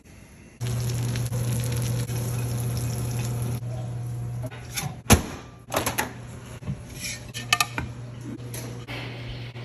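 Kitchen cooking sounds: a steady hum with a hiss over it starts suddenly about half a second in, then pans and utensils clatter several times, the loudest knock about five seconds in.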